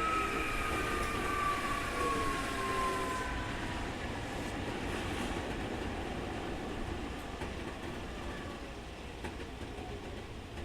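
Keikyu 2000 series electric train running, with the high 'jet sound' whine of this Mitsubishi field-chopper car falling in pitch and fading over the first few seconds as the train slows. The running noise then gradually quietens.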